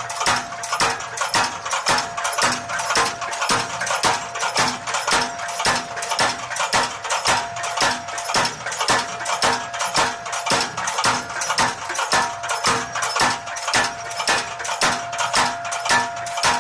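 Motor-driven power hammer striking steady, even metallic blows, about two a second, as it draws out a steel bar, with a steady whine underneath.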